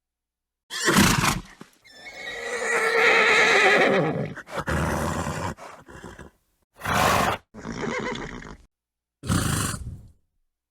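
Horse sounds cut apart by dead silence: a short snort about a second in, then a long whinny with a wavering pitch that trails off, followed by three shorter snorts and blows near the end.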